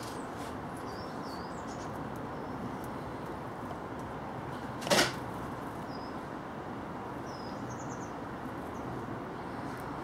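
Faint, short, high chirps of small birds come and go over a steady background noise. About halfway through there is a single short, loud knock, much louder than anything else.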